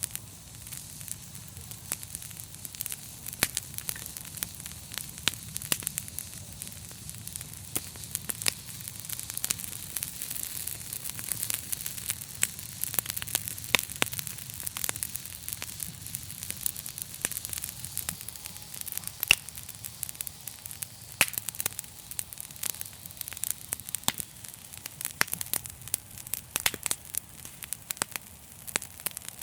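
Wood fire burning in a fireplace: a steady hiss with frequent sharp crackles and pops at irregular intervals.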